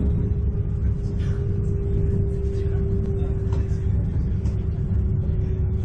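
Interior running noise of a moving electric train, the 719-series-based Fruitia Fukushima: a steady low rumble from the wheels and running gear with a steady hum held on one pitch over it.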